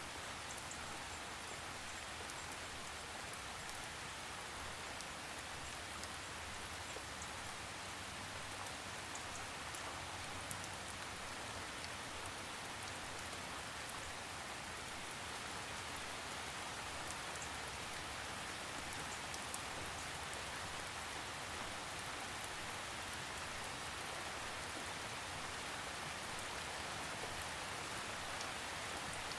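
Steady rain falling, an even hiss with fine drop patters, without thunder.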